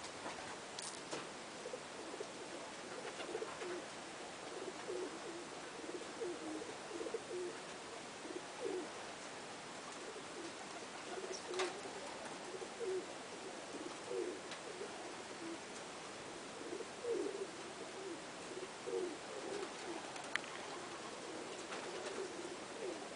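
Pigeons cooing, many short low calls one after another, with a few sharp clicks over a steady hiss.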